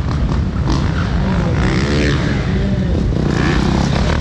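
Motorcycle engine running with a steady, loud low rumble.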